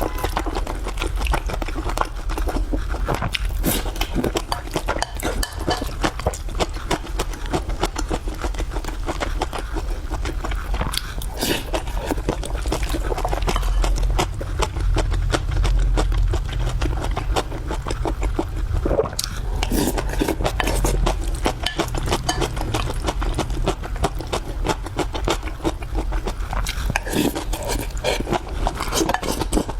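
A person chewing and eating close to the microphone: a steady, dense run of small mouth clicks and smacks.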